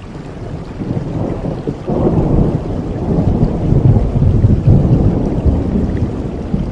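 Thunder rolling over steady rain: a deep rumble swells suddenly about two seconds in and keeps rolling, slowly easing toward the end.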